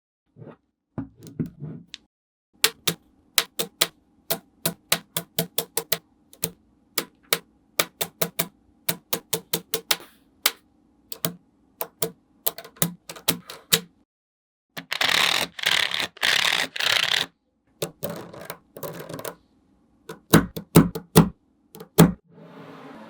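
Magnetic balls clicking sharply as they snap onto one another, in a long run of separate clicks about two or three a second. About halfway through comes a few seconds of denser rattling clatter, and near the end a few louder knocks.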